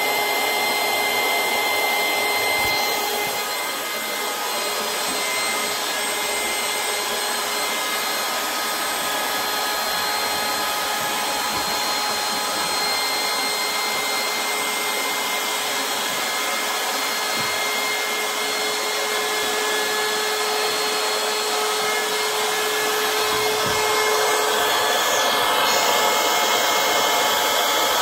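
Battery-powered portable electric air pump running steadily, a blower rush with a motor whine; near the end its tone shifts and it gets a little louder.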